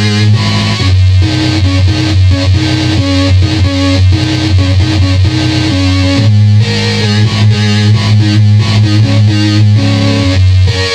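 Circuit-bent electronic keyboard making glitchy electronic tones: a steady low drone with short stepping notes above it over a rapid pulsing rhythm. The drone shifts in pitch about a second in and shifts back about six seconds in.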